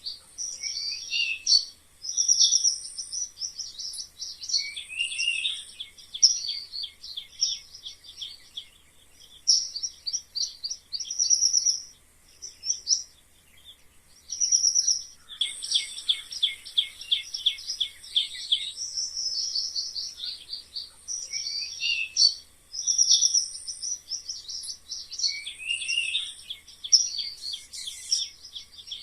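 Mice squeaking: rapid trains of high-pitched squeaks and chirps, some sliding downward in pitch, coming in bursts with short pauses between them.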